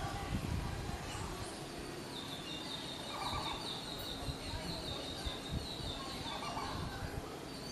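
A small bird singing a long run of quick, high, repeated notes, starting about two seconds in and lasting several seconds, over a steady outdoor background hiss.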